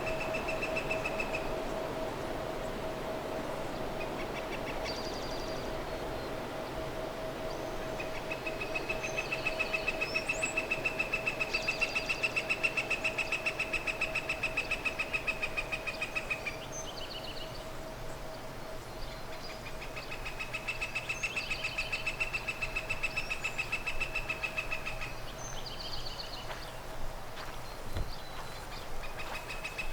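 Outdoor bird calls: long pulsing trills lasting several seconds each, repeated three times with gaps, over a steady hum, with a few short higher chirps between them.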